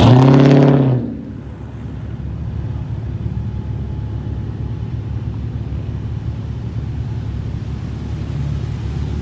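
Steady low rumble of cars, opened by a loud blast with one steady low pitch that lasts about a second and cuts off.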